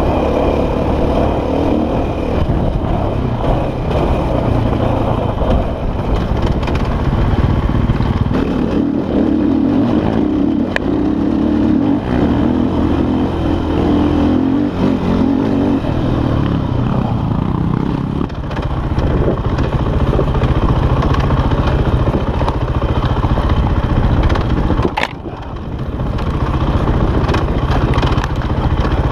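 KTM enduro dirt bike engine running under varying throttle, the revs rising and falling as it is ridden over a rough, rocky trail, with some clatter from the bike. The throttle shuts off sharply once about 25 seconds in, then the engine picks up again.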